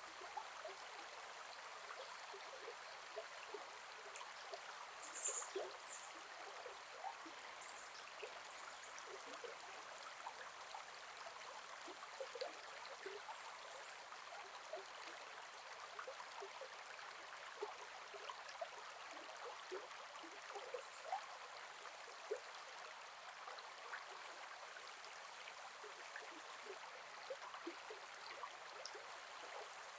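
Gentle forest river flowing: a steady rush of water dotted with small gurgles and plops. A few short high chirps stand out about five seconds in.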